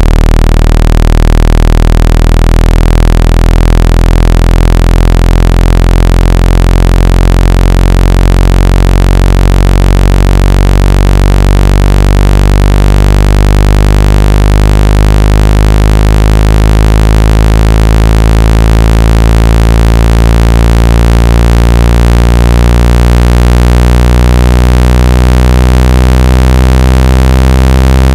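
Loud, steady, low-pitched electronic buzzing tone with many overtones: a speaker water-ejection sound, played at full volume so that the vibration shakes trapped water out of a wet phone or earphone speaker.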